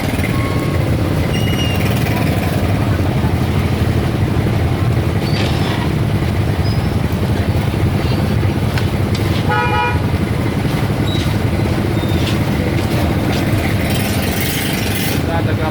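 Busy street traffic: a steady rumble of vehicle and motorbike engines, with a short horn toot about ten seconds in.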